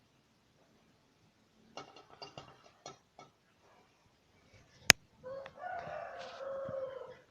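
A rooster crows once, a drawn-out call of about two seconds in the second half. Before it come a scatter of light taps and one sharp click.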